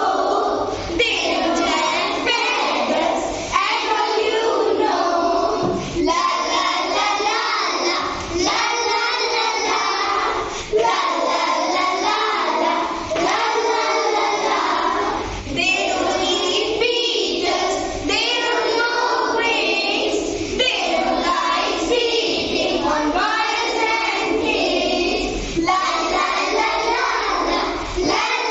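A group of children reciting a poem in unison, in a rhythmic sing-song chant, with short breaks between lines about every two seconds.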